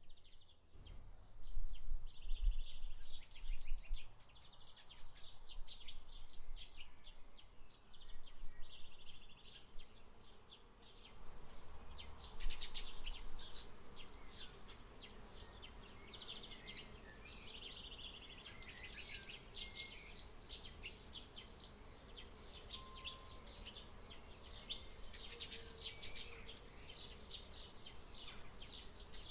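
Many small birds chirping and twittering in quick, overlapping trills, with some buzzy calls, over a low rumble of wind on the microphone that is strongest in the first few seconds.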